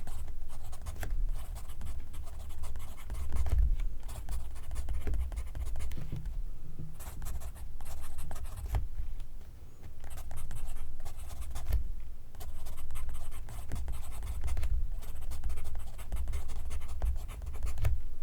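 Pencil writing on paper: runs of quick, scratchy strokes broken by a few short pauses.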